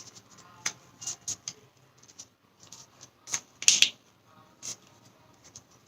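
Square origami paper crackling and rustling in short, irregular bursts as it is folded and creased by hand, loudest a little past the middle.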